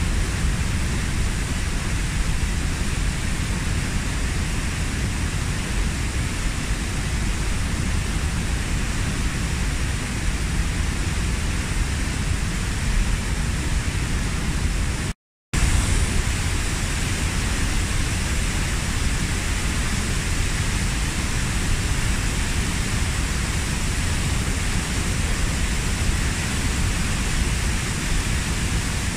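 Kozjak waterfall, about 15 m high, pouring steadily in an even rushing noise. About halfway through, the sound cuts out completely for a split second and then resumes.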